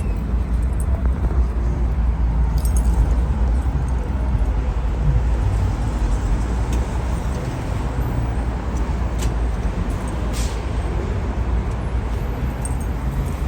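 Steady low rumble of an airliner cabin in flight, with a few faint clicks.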